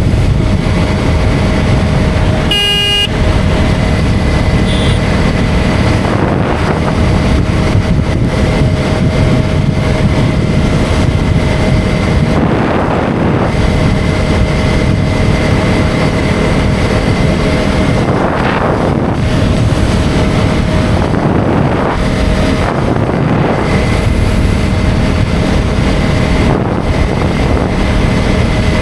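KTM Duke 250's single-cylinder engine running steadily under way, with wind and road noise. A vehicle horn sounds briefly about three seconds in, and the noise swells twice midway.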